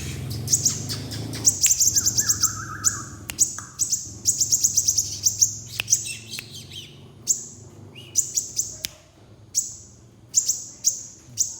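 Crimson sunbird calling: very high-pitched, rapid runs of short chirps, given in repeated bursts with short pauses between them.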